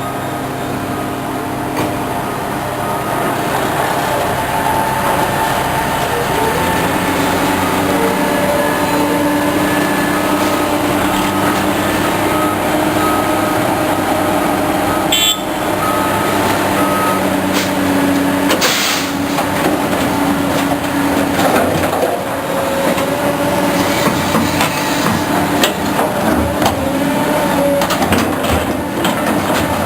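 Caterpillar diesel machine working while loading a truck: the engine runs steadily, its pitch rising and falling as it is throttled up and down, with occasional metallic knocks. Through the middle comes a faint, evenly repeated beeping.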